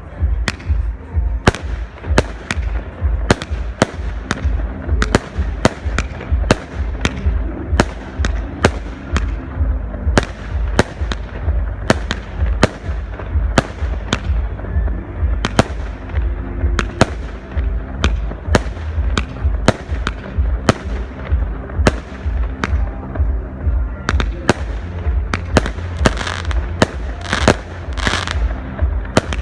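Fireworks display: a rapid, unbroken string of aerial shell bursts, about two or three sharp bangs a second, each with a short fading tail, with a denser hissing, crackling spell near the end.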